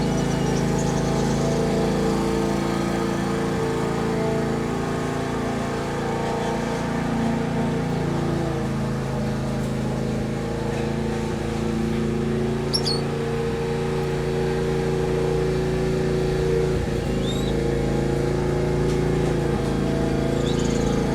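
A steady low drone with several held pitches, over which a few short, high bird chirps sound now and then.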